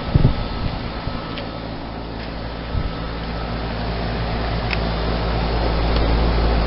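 Carrier 2.5-ton outdoor heat pump running in heat mode with its coil frozen up: a steady compressor hum with the outdoor fan, a couple of brief knocks right at the start.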